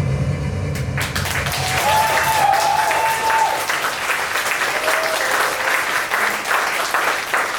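The music ends about a second in, and an audience applauds, with a voice calling out briefly over the clapping.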